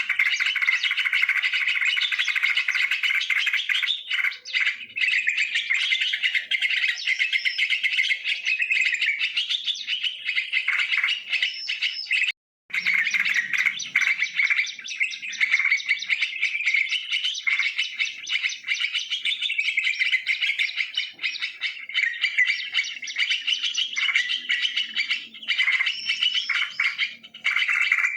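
Yellow-vented bulbuls chattering and calling, dense overlapping chirps with hardly a pause, cut off by a sudden brief silence about twelve seconds in.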